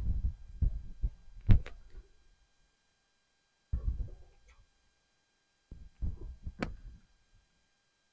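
Scattered soft, low thumps and a few sharp clicks from hand work on stereo wiring in a truck cab, coming in three short clusters with silence between them.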